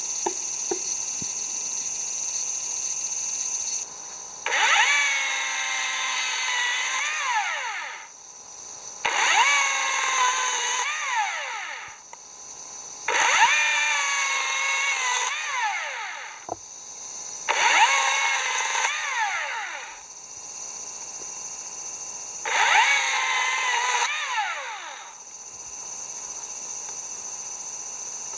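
Power drill running in five separate bursts of two to three seconds each, its motor pitch dipping and rising as it works.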